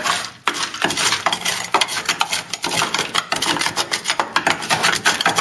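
Quick, irregular scraping and rasping of a hand tool working at the rusted steel of a car's chassis rail, the rotten metal crumbling until the tool goes straight through it.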